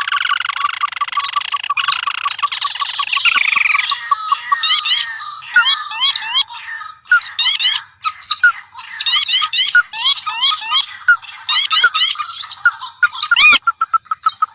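Recorded calls of rice-field and swamp birds (rails, crakes and waterhens) played as a bird lure, several birds calling over one another. A dense run of fast repeated notes gives way after about four seconds to quick series of short rising notes.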